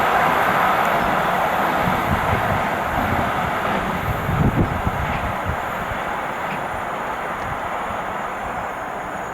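Train going by on the line: the steady rolling noise of its wheels on the rails slowly fades as it draws away, with a few low bumps about halfway through.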